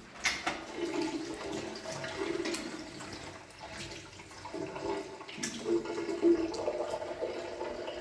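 Water running and splashing, with a few sharp knocks.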